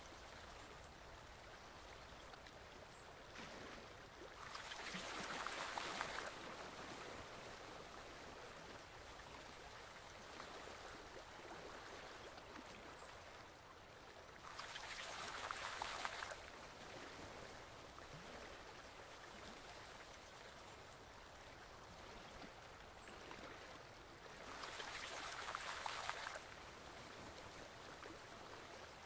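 Forest stream flowing steadily, with a louder rush of water three times, about ten seconds apart.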